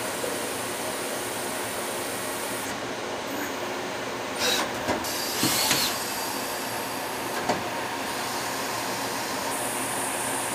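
Citizen M32VIII Swiss-type CNC lathe running a machining cycle: a steady mechanical running noise, with a few short, louder bursts about halfway through.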